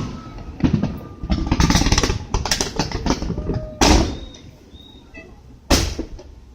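Aerial fireworks going off: a run of rapid crackling bursts, then two loud booms about two seconds apart in the second half.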